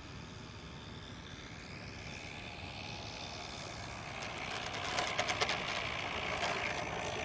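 OS 25FX two-stroke glow engine of a radio-controlled model plane running in flight, its pitch sweeping up and down as the plane moves about, getting louder from about four seconds in, with a few sharp clicks around five seconds. The engine runs rough with rusted bearings and can hardly be throttled back.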